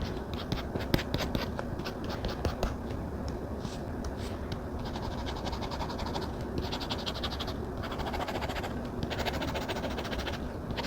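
Stylus drawing on a Samsung Galaxy tablet screen. There are a few light taps in the first seconds, then stretches of scratchy pen strokes.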